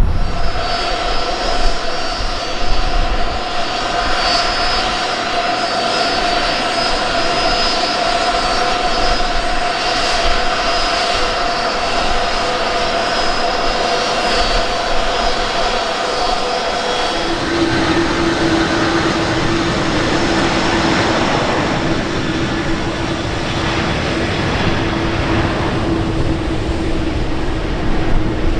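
Fixed-wing airplane's engines going past: a steady engine tone over a broad rush, which drops abruptly to a lower pitch a little past halfway as the plane passes by.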